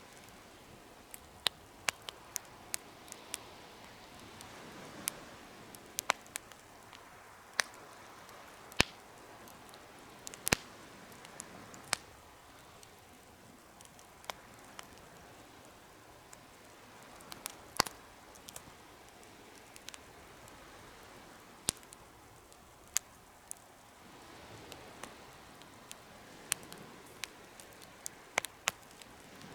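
Wood fire burning in a homemade fire pit: irregular sharp crackles and pops, about one or two a second, over a soft steady hiss.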